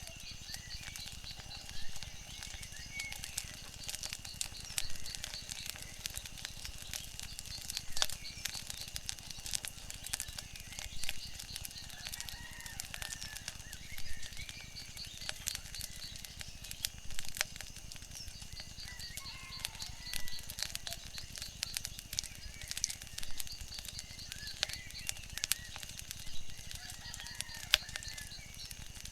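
Wood fire crackling, with frequent sharp pops over a low steady rumble, and short bird-like calls now and then.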